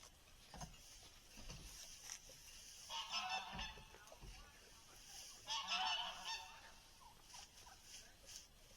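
Two honking calls from farm waterfowl, one about three seconds in and a louder one near the middle, over faint rustling and knocks.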